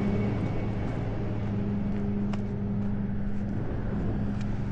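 Truck engine idling steadily, with a sharp metallic click about two seconds in and a few lighter ticks afterward.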